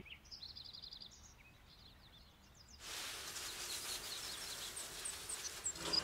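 Birds chirping and trilling in faint outdoor ambience; about halfway through, a steady hiss of background noise swells in under the birdsong.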